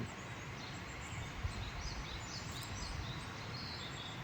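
Outdoor background noise with a few short, faint bird chirps scattered through it.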